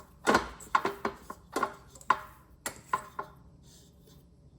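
A quick run of sharp knocks and clatters, about eight in three seconds, as things are handled and set down on a kitchen counter; they stop a little over three seconds in.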